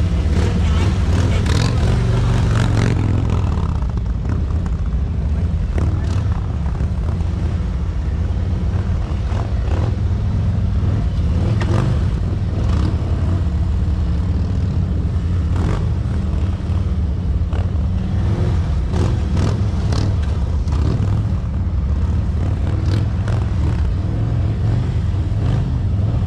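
Large motorcycle engines running at low speed, a steady deep rumble with small rises in throttle, over scattered short clicks.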